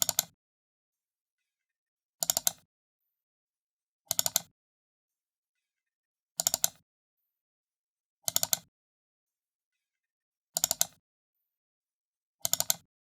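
Computer mouse button double-clicked, repeated about every two seconds, each double-click a quick pair of sharp plastic clicks with silence between.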